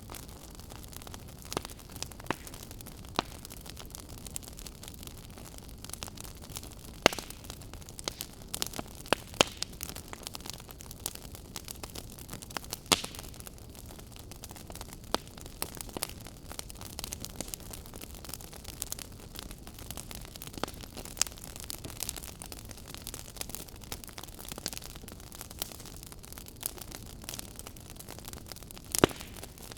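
A fire crackling: a steady soft hiss with irregular sharp pops and snaps, a few louder pops standing out.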